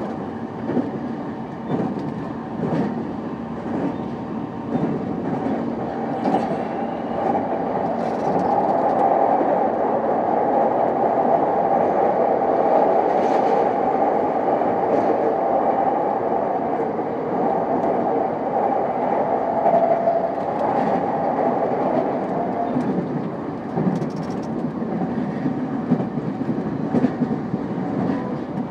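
JR East E233 series 5000 electric train running at speed, heard from inside the car: a continuous rolling rumble of wheels on rail with scattered clicks of rail joints. A steady humming tone swells up about a quarter of the way in, holds, and fades again near the end.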